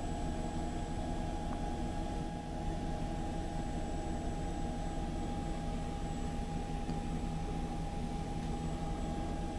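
Steady hum inside the cabin of a running Mercedes-Benz Sprinter limousine: the idling engine and climate fan, with a constant high whine over the low rumble.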